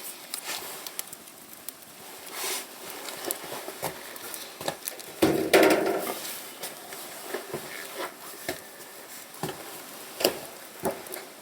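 Thin wood kindling crackling and popping in a fireplace as it is being lit, in sharp, irregular pops; the kindling is damp and cold and only just catching. About five seconds in comes a louder rushing, rustling noise lasting about a second.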